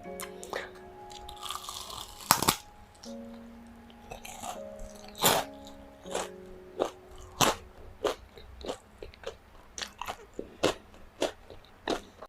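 Close-miked crunching bites and chewing of food coated in crushed Hot Cheetos, over soft background music with held notes. The loudest crunch comes about two seconds in, and there is a quick run of crunches, about two a second, in the last four seconds.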